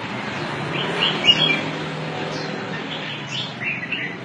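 Short high bird chirps, in a cluster about a second in and another near the end, over a steady background hum.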